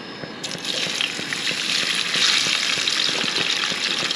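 Peeled cherabin (freshwater prawns) dropped into hot vegetable oil in a frying pan, searing with a crackling sizzle. The sizzle starts suddenly about half a second in and builds over the next second or so.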